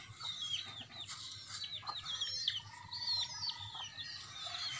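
Small birds chirping: many short, high, falling calls, one after another.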